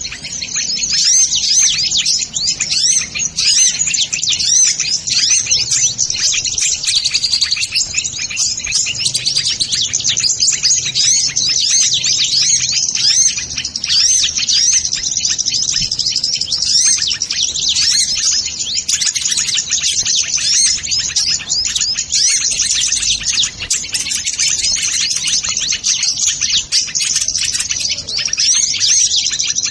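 Sunbirds twittering: a dense, unbroken stream of rapid high-pitched chirps and short trills, many calls overlapping.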